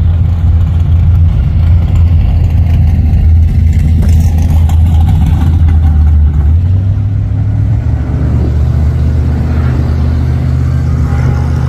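Two muscle-car engines running loudly, staged at the drag-strip start line, then launching about six and a half seconds in and accelerating away, their pitch rising.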